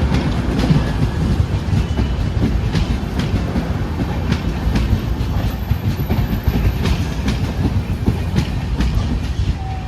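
Train running along the track: a steady low rumble with irregular sharp clicks of the wheels passing over rail joints.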